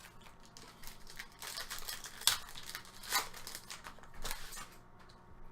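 Crinkling and tearing of a trading card pack wrapper as packs and cards are handled, a run of short rustles with a sharp snap about two seconds in, stopping just before the end.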